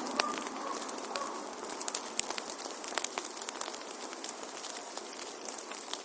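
Wood fire crackling in a fireplace: frequent irregular sharp pops and snaps over a steady hiss of burning.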